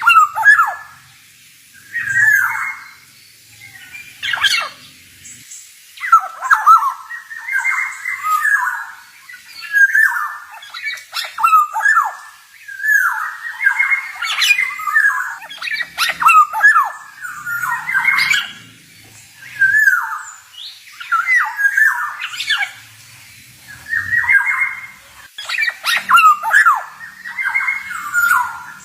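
Male black-naped oriole (kepodang) calling and singing: short harsh, wavering phrases repeated about every one and a half seconds, with sharp clicking notes among them.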